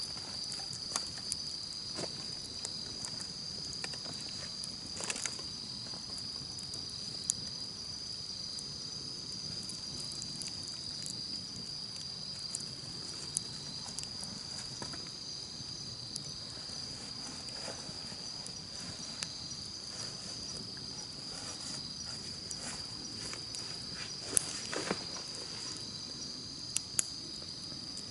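Campfire crackling, with scattered sharp pops and snaps, a few louder ones near the end, over a steady high-pitched chorus of chirping insects.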